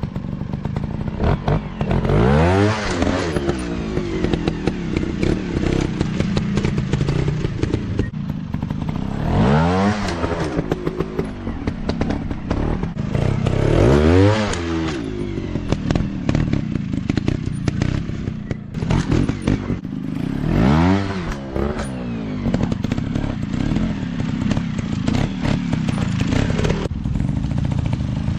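Motocross dirt bike engines revving, the pitch climbing and dropping back again about five times over a steady engine drone.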